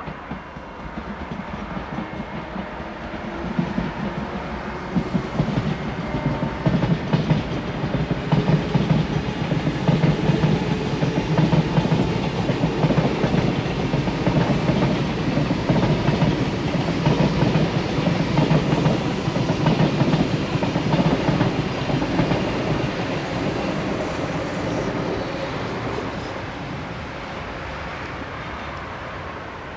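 Double-deck electric passenger train passing on a viaduct, its wheels clicking over the rails above a low rumble. It builds from about three seconds in, is loudest in the middle, and fades away near the end.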